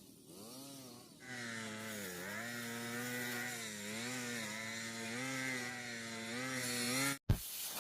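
A small petrol engine running at a steady speed, its pitch wavering slightly up and down. It comes in louder after about a second and cuts off abruptly near the end.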